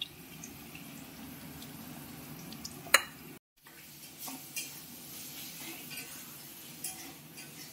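Spice masala frying in oil in a pan, sizzling steadily while a spoon stirs it, with scattered clicks of the utensil and one sharp knock on the pan about three seconds in.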